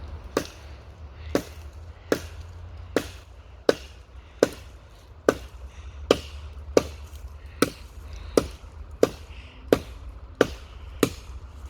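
Small flat hatchet chopping dry deadwood: about fifteen sharp, evenly spaced strikes, a little more than one a second.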